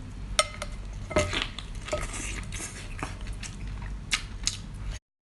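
Cutlery and dishes clinking: a dozen or so sharp clinks, several with a brief ring, over a low steady hum. The sound cuts off abruptly near the end.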